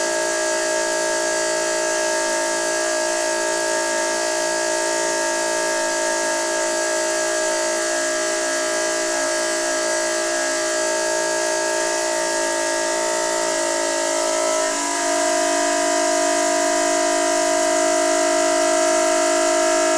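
Noisy water pipe singing: a steady hum of several held tones over the hiss of rushing water. About fifteen seconds in, the tone shifts slightly and grows a little louder.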